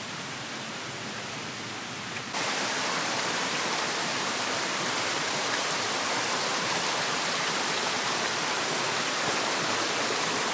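Waterfall rushing: a steady hiss of falling water that gets suddenly louder about two seconds in and then holds level.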